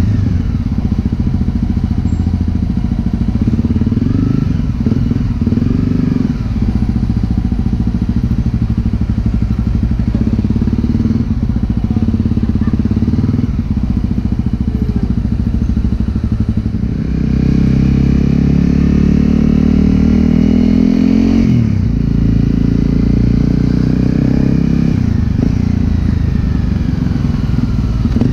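Honda CRF250L single-cylinder engine running through a Yoshimura exhaust while riding, the revs rising and falling with the throttle. Past the middle it revs up hard and drops sharply at a gear change, then builds again.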